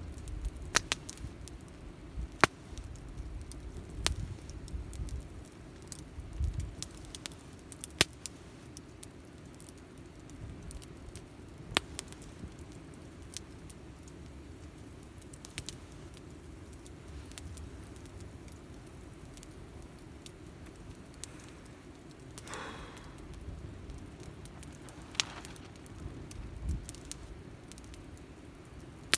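Wood fire crackling in a Picogrill folding fire grill, with sharp pops every second or so over a low rumble, and a short hiss about two-thirds of the way through.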